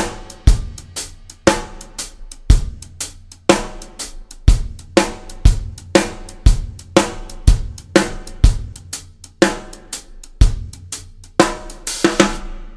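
Drum kit playing a shuffle groove: a swung hi-hat figure over bass drum and snare, first as a standard shuffle with the snare on 2 and 4, then as a half-time shuffle with the bass drum on 1 and the snare only on 3. The playing stops just before the end.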